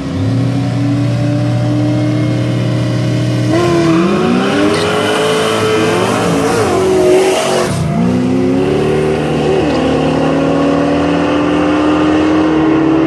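Two Fox-body Ford Mustang 5.0 V8s held at steady raised revs on the line, then launching about three and a half seconds in and accelerating hard, engine pitch climbing and dropping with gear shifts, with a loud rush as they pass about seven seconds in. A steady engine drone follows after they go by.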